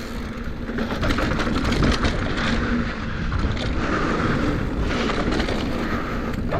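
Mountain bike ridden fast on a dirt singletrack: tyres rolling over dirt and small rocks, the bike rattling and clicking over the bumps, with wind rumbling on the microphone.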